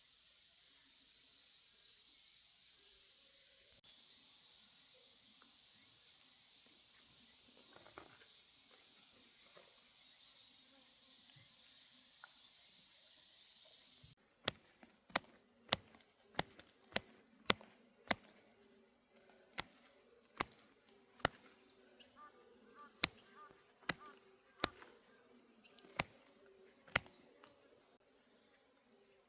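Insects chirping in a steady, high, pulsing drone. About halfway through, the sound changes abruptly to a series of about fifteen sharp clicks, roughly one a second, over a faint background hum.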